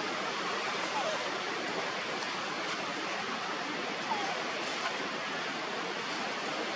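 Steady rushing noise, with two faint short falling squeaks about a second in and again about four seconds in.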